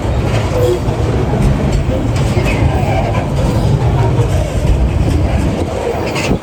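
Freight train rolling past, its wagons' wheels on the rails making a steady, loud low noise.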